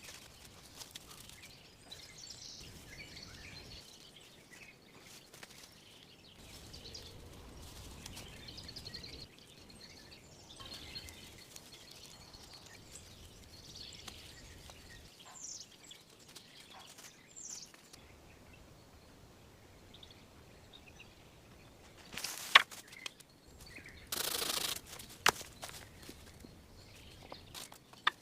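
Quiet forest ambience with faint, scattered bird chirps; toward the end come a few loud sharp knocks and a short rasping, scraping stretch of handling or working material.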